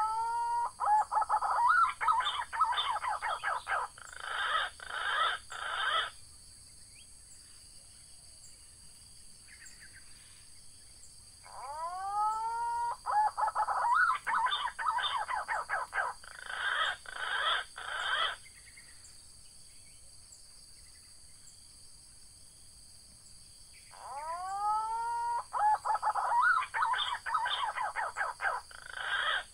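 Punai (green pigeon) calls in three bouts, about every twelve seconds. Each bout opens with rising whistles and runs into a fast series of warbling notes. A steady high insect drone runs underneath.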